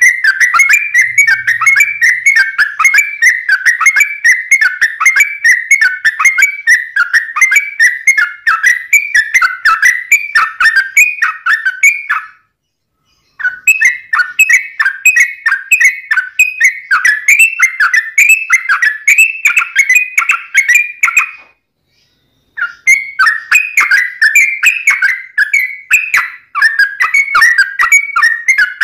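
Yellow-vented bulbul (trucuk) singing a long, fast, unbroken run of quick bubbling notes. The song cuts out abruptly twice, about twelve and twenty-one seconds in, then resumes.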